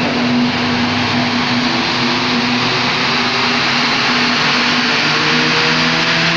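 Mini Graphite's engine running under load on a rolling road dyno over a loud, steady rushing noise. Its pitch climbs slowly through the second half as the revs build.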